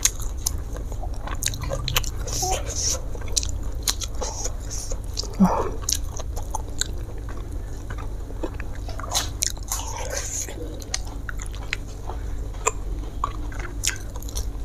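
A person chewing and biting tuna with rice, close to the microphone, with many small wet mouth clicks and a few crunches over a steady low hum.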